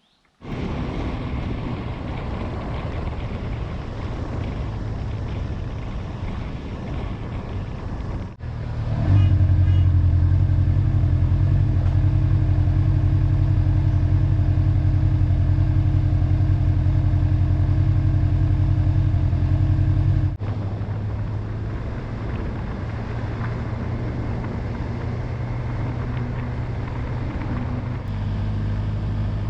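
Honda motorcycle engine running at a steady road speed, a low drone under wind and road noise. The sound changes abruptly twice, about eight and twenty seconds in, and the middle stretch is louder with a stronger, deeper drone.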